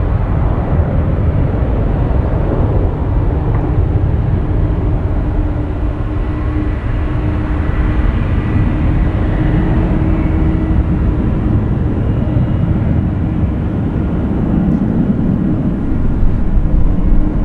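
Airbus A320 jet engines running, a loud, steady rumble with a faint whine held on one pitch.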